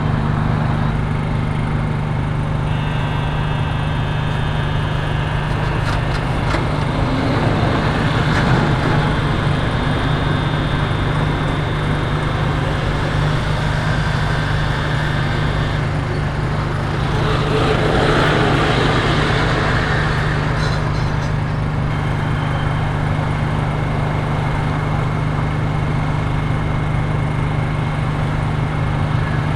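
A motor running steadily with a constant low hum, over a background of street traffic.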